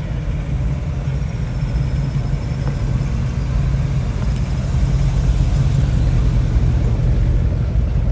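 Hot rod engine running at low speed as the car rolls by, a steady deep rumble that grows a little louder about halfway through. A faint high whine from its small turbo fan comes and goes above the rumble.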